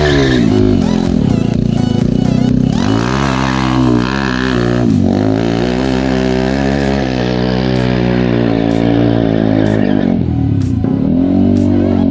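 Motorcycle engine revving, its pitch dropping and climbing again several times.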